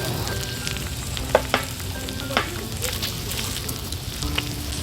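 Pork belly and pork neck sizzling on a wood-fire barbecue, with a few sharp clicks scattered through.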